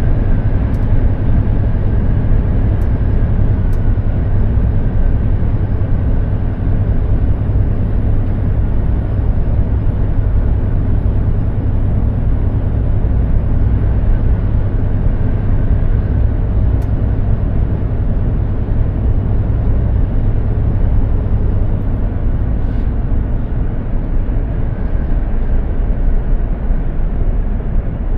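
Mercedes-Benz Actros 2763 truck's straight-six diesel running steadily at cruise, a deep drone mixed with tyre and road noise.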